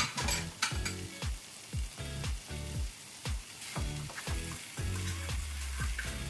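Bone-in ribeye steaks and vegetables sizzling in a Presto Foldaway electric skillet, with metal tongs clicking against the pan as the steaks are turned. Background music with a bass beat about twice a second plays over it.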